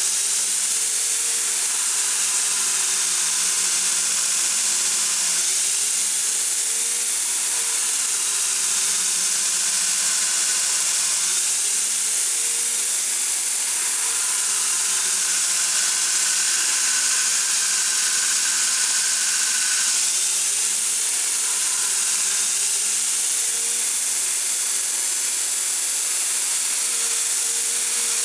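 A workshop power tool running continuously with a steady loud hiss, its motor note sagging and recovering every few seconds as the work is pressed against it and eased off.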